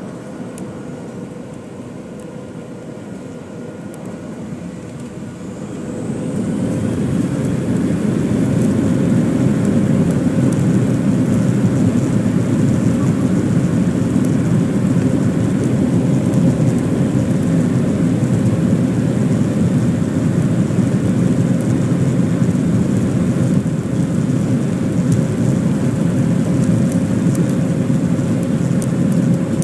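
Boeing 737 jet engines spooling up to takeoff thrust for the takeoff roll. A quieter hum at first, then about six seconds in a rising whine as the roar swells, which then holds as a loud steady roar with a steady tone running through it.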